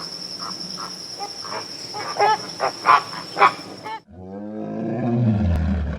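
A series of short, sharp animal calls over a steady high whine, cut off about four seconds in by a deep, drawn-out roar typical of a lion, its pitch falling slightly.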